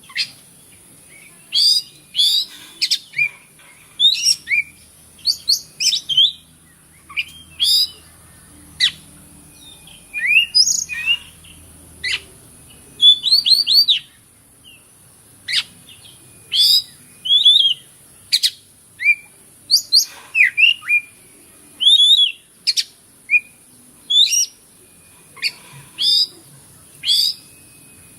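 Oriental magpie-robin (kacer) singing loud, varied phrases of sharp, quickly sweeping whistles and chirps, with short pauses between phrases, over a steady high hiss.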